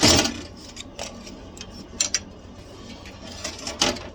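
Metal clicks and knocks from a drawer slide and tray being handled: a scraping rustle at the start, then scattered sharp clicks, the sharpest near the end.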